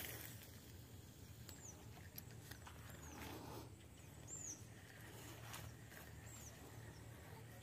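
Near-quiet marsh ambience in which a bird repeats a short high chirp that dips in pitch, about four times, with a few faint clicks and a soft rustle.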